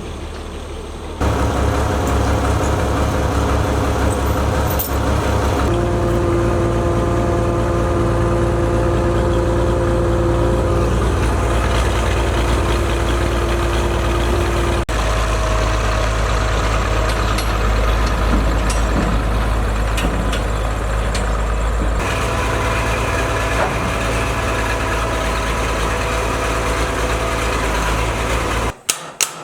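A motor vehicle's engine running with road noise, heard from inside the cab. It comes as several spliced stretches, and the pitch and character change abruptly at each join.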